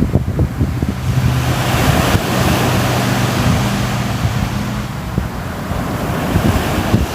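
Sea waves surging and washing onto the shore, one wave swelling for a few seconds and then easing back, with wind rumbling on the microphone. A faint low steady hum sits under the wash for a few seconds.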